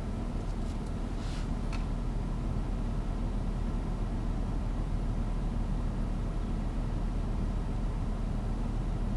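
Audi Q7's 3.0 TDI V6 turbodiesel idling while the car stands still, a steady low rumble heard inside the cabin. A brief soft hiss comes about a second and a half in.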